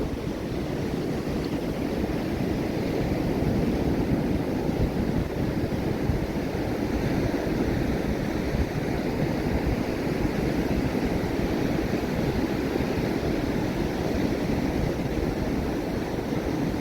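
Ocean surf on a sandy beach: a steady rush of breaking waves.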